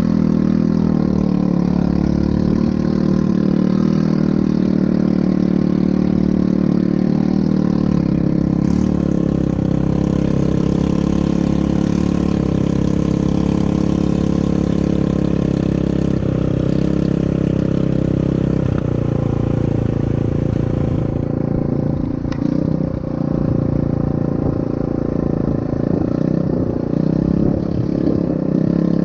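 ATV engine running steadily, its note holding even before it becomes less regular and varies about two-thirds of the way through.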